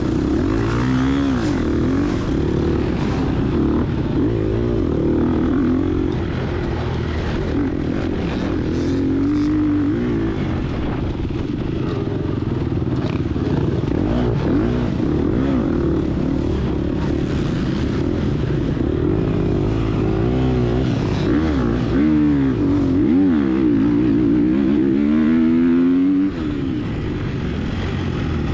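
Gas Gas EX250F's 250cc four-stroke single-cylinder engine revving up and down under hard riding, its pitch repeatedly rising and falling through throttle changes and gear shifts, with some clatter from the bike.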